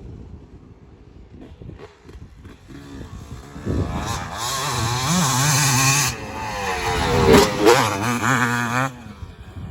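Motocross dirt bike engines revving, faint at first and then loud from a few seconds in, their pitch rising and falling with the throttle before fading near the end.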